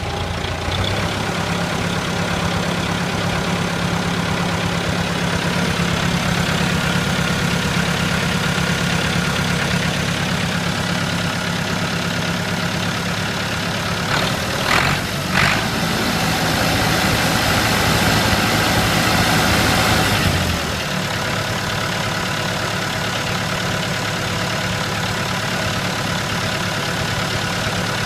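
Massey Ferguson 290 tractor's four-cylinder diesel engine idling steadily. About halfway there are two short sharp sounds; the engine then runs a little louder for a few seconds and settles back to idle.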